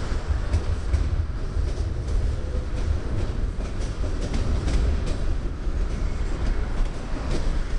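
Train rolling past close by: a steady low rumble with scattered clicks of wheels over rail joints.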